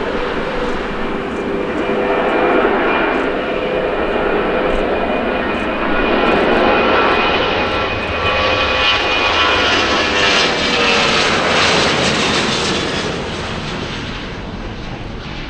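Airliner passing close by, its engines running loud with a steady whine; the whining tones drop slightly in pitch as it goes past, and the noise fades near the end.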